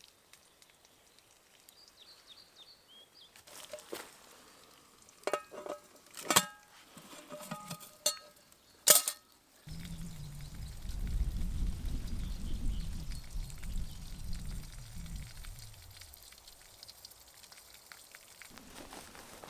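A series of sharp clinks and knocks, each with a short ring, like a metal cooking pot and utensils being handled, the loudest one near the middle. After that comes a low rumbling noise lasting about six seconds, which fades out.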